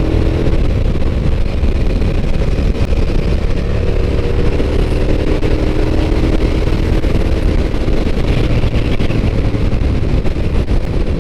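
Suzuki SV650S V-twin motorcycle engine running at a steady cruising speed, its pitch holding roughly even, with a heavy low wind rumble on the microphone.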